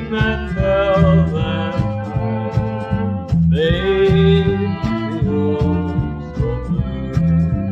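Country band playing an instrumental passage: a sliding, pitched lead melody over a steady, evenly pulsing bass and rhythm.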